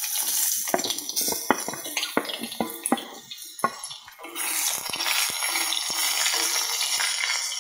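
Raw potato slices tipped into hot oil in a kadai, knocking as they land over a loud sizzle. From about four seconds in, a wooden spatula stirs them and the oil sizzles steadily.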